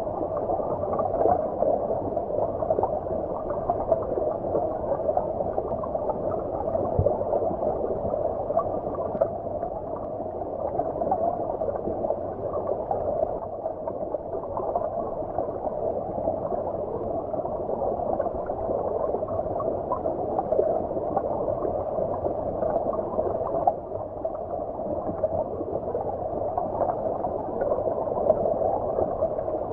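Stream water heard underwater: a steady, muffled gurgling rush with the high frequencies cut away.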